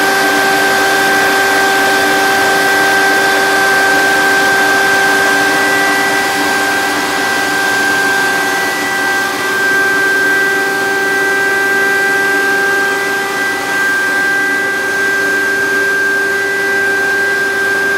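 Leader hydraulic positive-pressure ventilation fan running: a loud, steady rush of air with a constant whine over it.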